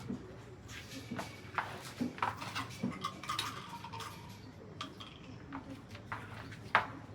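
A string of irregular light clicks and knocks, as of hard objects being handled and set down, with one sharper knock near the end.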